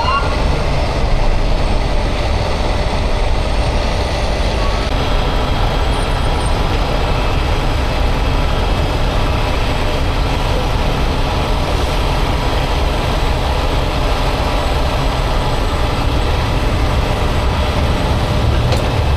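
A heavy truck's engine running steadily, a continuous low rumble with no change in speed.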